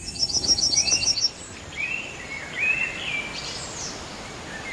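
Wild birds calling: a quick run of about eight high notes in the first second, then several short, arching whistled notes, over a steady background hiss.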